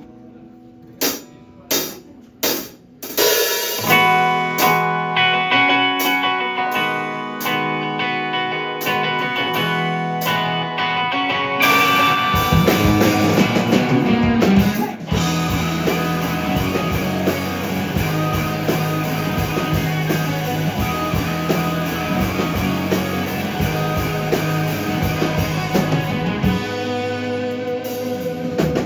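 Live rock band starting a song: four sharp clicks, then electric guitar and drum kit come in about four seconds in, and the band grows fuller about twelve seconds in. It is instrumental, with no singing yet.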